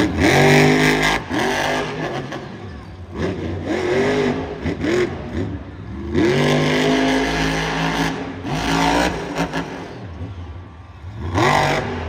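Monster truck engine revving hard in repeated surges, its pitch climbing and dropping several times.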